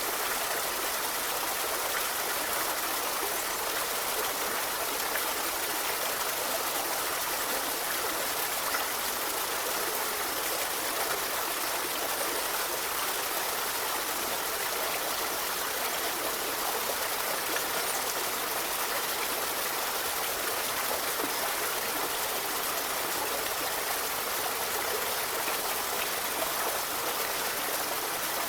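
Forest river flowing: a steady rush of running water, with no distinct splashes or changes.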